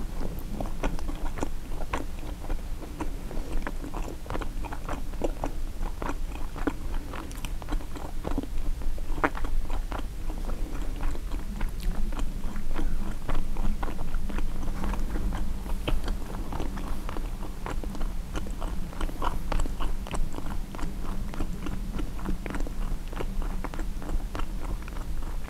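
Close-miked chewing and biting of a turkey sausage, egg and cheese bagel sandwich: a dense run of small mouth clicks and smacks, several a second, over a steady low hum.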